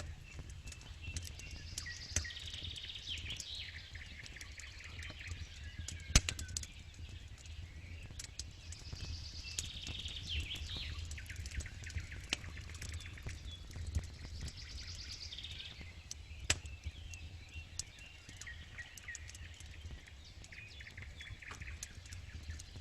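Campfire crackling and popping, with two sharp loud pops, one about six seconds in and one near sixteen seconds, over a low steady rumble. Birds sing in short phrases every few seconds.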